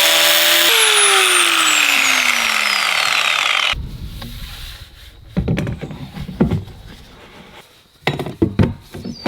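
Electric power saw cutting PVC pipe at full speed, then released so the motor's whine falls in pitch as the blade coasts down for about three seconds. Quieter knocks and handling sounds follow.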